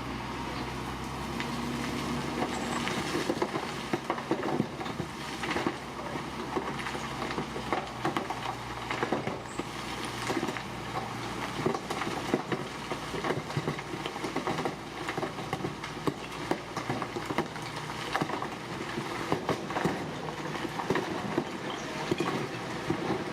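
Heavy earthmoving machinery at work: a steady diesel engine drone under frequent irregular clanks and knocks of metal and rock.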